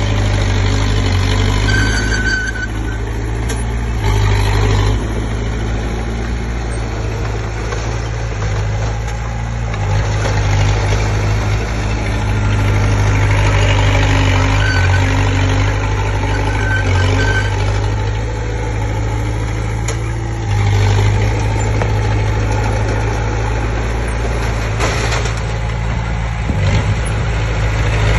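Komatsu D20P bulldozer's diesel engine running steadily, its level and pitch shifting every few seconds as the machine works.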